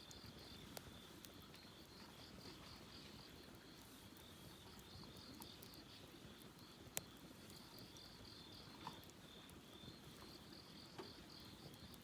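Faint crickets chirping in a steady, high, pulsing trill. A few faint clicks sound over it, one sharper about seven seconds in.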